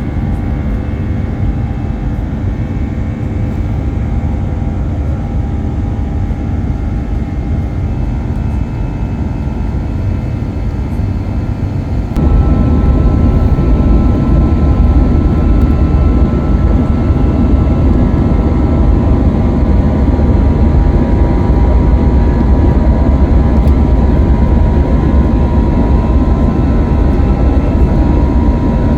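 Jet engine noise heard from inside the cabin of an Airbus A321: a steady deep rumble with a few steady whining tones. About twelve seconds in it jumps abruptly louder, with more rumble and a new higher whine, and holds there.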